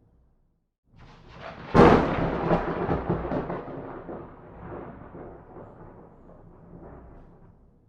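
A thunderclap: a low rumble builds, breaks into a sharp loud crack about two seconds in, then rolls on and fades away over the next several seconds.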